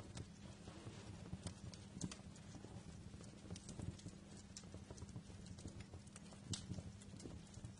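Wood fire crackling in a fireplace: irregular sharp snaps and pops over a low, steady rumble of burning, with a louder pop about two seconds in and another near six and a half seconds.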